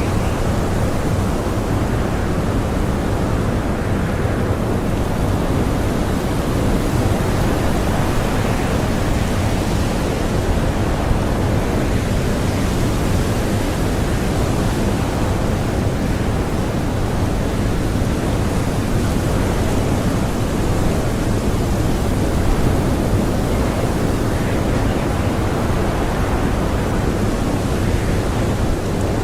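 Blizzard wind blowing hard and steadily, a dense rushing noise whose higher part swells and eases slowly every few seconds.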